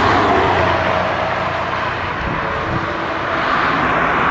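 Steady rushing noise while riding a bicycle: wind over the microphone and tyres rolling, with no separate events standing out.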